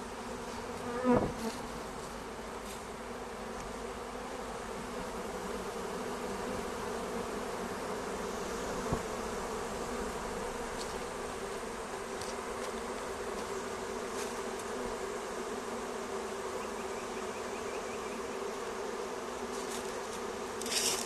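Swarm of honeybees buzzing steadily, a dense, even drone of many bees as the swarm settles into a new hive box around its caged queen. A brief louder sound comes about a second in.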